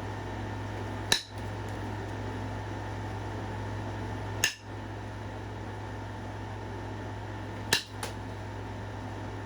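Flintknapping by indirect percussion on Knife River Flint: a hammer striking a punch set against the stone, giving sharp stony knocks about a second in, in the middle, and a quick double near the end.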